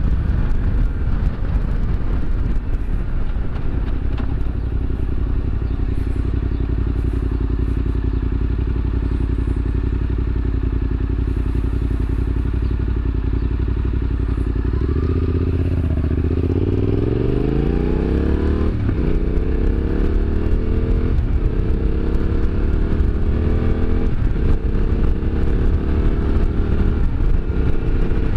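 Yamaha Ténéré 700's parallel-twin engine running steadily for about fifteen seconds, then revving up as the bike accelerates. A few brief breaks in the rising pitch in the second half sound like upshifts.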